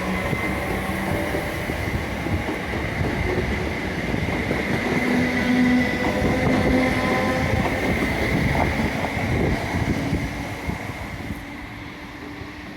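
A train running through the station: steady wheel-on-rail rumble and clatter with a few steady motor whines, dying away near the end.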